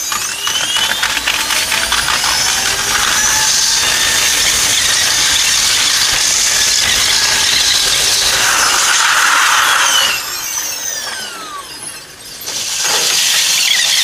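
Electric train running noise played at eight times speed, a high-pitched rushing with whines that glide up as the train pulls away and glide down as it slows about ten seconds in; it swells loud again near the end.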